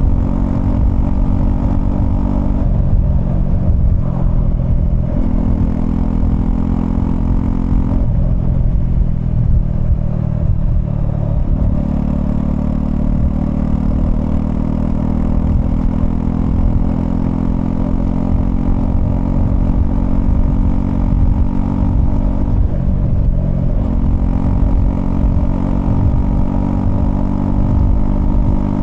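Honda CL250 motorcycle engine running under way. The engine note changes pitch about three and five seconds in, falls away for a few seconds from about eight seconds, comes back up near twelve seconds, and then runs steadily.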